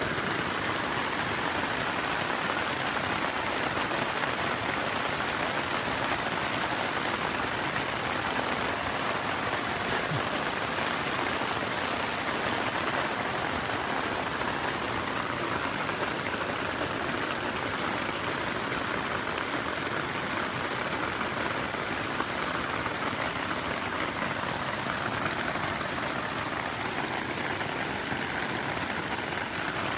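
Steady rain drumming on tent fabric, heard from inside the tent as an even, unbroken hiss.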